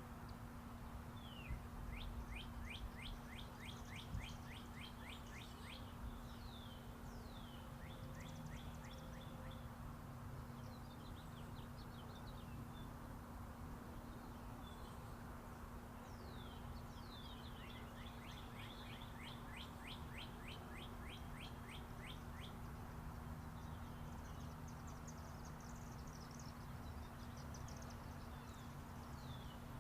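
Songbirds chirping in quick trills of short downward-sweeping notes, one run about two seconds in and another past the middle, with scattered single chirps between. Underneath is a steady low rumble with a constant hum: traffic on Interstate 40.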